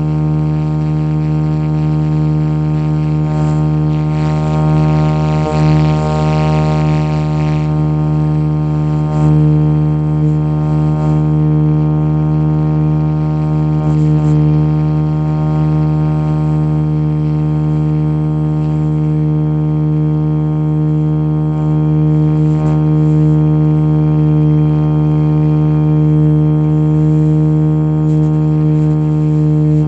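Radio-controlled Jet Ranger scale helicopter running at a steady speed: one unchanging low droning hum with many overtones.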